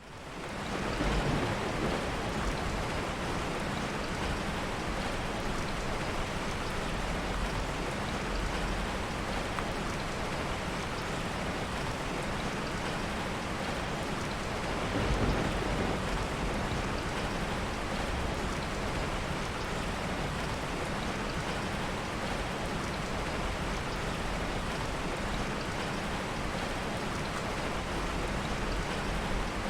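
Heavy rain falling steadily, fading in at the start, with a brief low rumble of soft thunder about halfway through.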